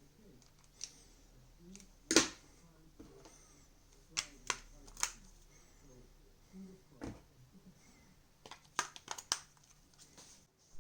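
Sharp plastic clicks and taps from a TV remote being handled: one loud click about two seconds in, a few more around four to five seconds, and a quick run of clicks near the end.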